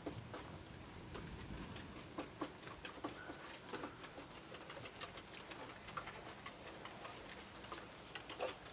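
Rain dripping and pattering: scattered light ticks and taps at an uneven pace over a soft steady hush.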